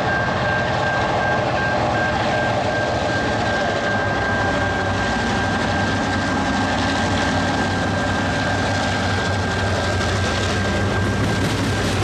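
Diesel locomotives of a freight train running past at close range, the engine rumble growing stronger about halfway through, with a steady high-pitched whine over the noise.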